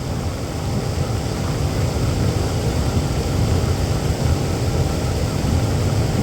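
Strong wind blowing in a storm, a loud, steady low noise that rises and falls slightly.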